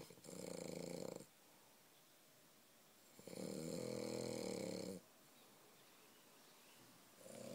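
French bulldog snoring in its sleep: three long, rasping snores a few seconds apart, each lasting one to two seconds, with quiet breaths between. This kind of snoring is typical of the breed's short, flat-faced airway.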